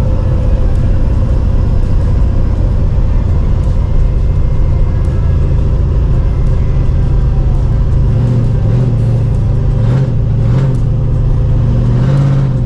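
Motor vehicle engine running with a steady low rumble. In the last few seconds its pitch wavers up and down as the revs change.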